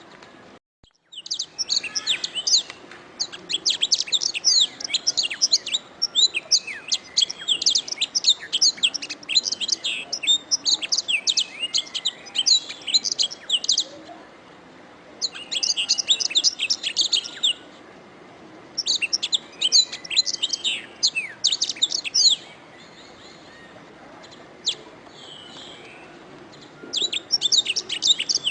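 Domestic canary singing: fast trills and chirps in high-pitched phrases of a few seconds each, separated by short pauses, over a faint steady hiss. The sound drops out briefly at the very start.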